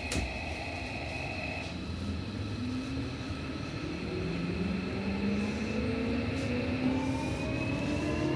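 Traction motors and Toshiba IGBT VVVF inverter of a Seibu 6000 series train accelerating away from a station stop. A click at the start, a steady high tone that drops out before two seconds in, then a whine of several tones rising together in pitch as the train gains speed.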